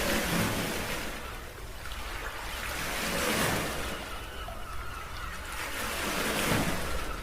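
Wind buffeting the microphone in gusts, swelling and easing about every three seconds over a steady low rumble.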